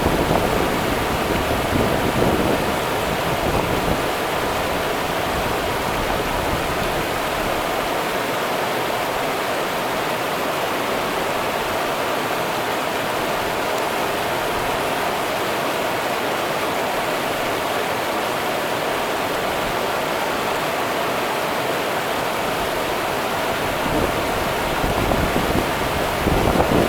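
Rio Grande river water rushing steadily. A low rumble swells in at the start and again near the end.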